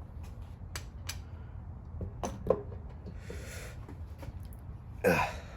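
Hand tools working on an engine block during teardown: scattered metal clicks and taps, with a sharper knock about halfway through, as a part is freed. A short voiced exclamation sounds near the end.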